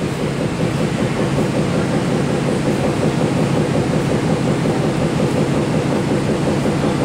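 MTR M-Train electric multiple unit running through a station platform without stopping: a steady rumble of wheels and traction equipment, a little louder in the middle.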